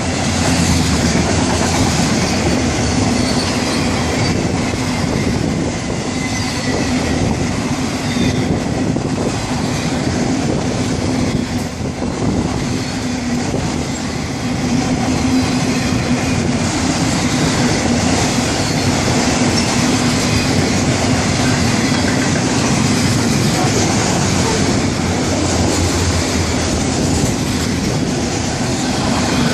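Florida East Coast Railway freight train's cars, autoracks and tank cars among them, rolling past at close range: a steady loud rumble of steel wheels on the rails with clattering over the joints and some wheel squeal on the curve.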